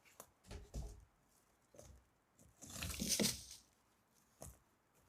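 Handling noise: a few short knocks and scrapes, then a longer rustle about three seconds in.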